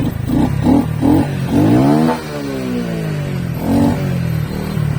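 Motorcycle engine revved in three quick throttle blips, then run up in one rising rev that falls away as the throttle is released, with one more short blip near the end.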